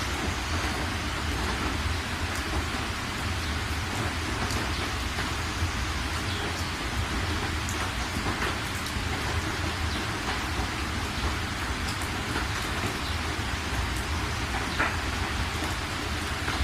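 Steady rain falling on a surface, with scattered individual drop ticks over a constant low rumble.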